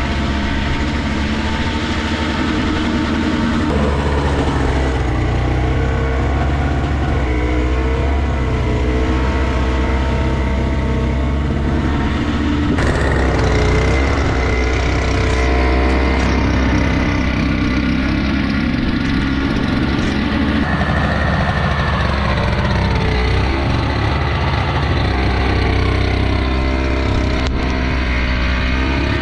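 Toro two-stroke single-stage snowblower running steadily while clearing snow, its engine pitch wavering up and down with the load. The sound shifts abruptly a few times.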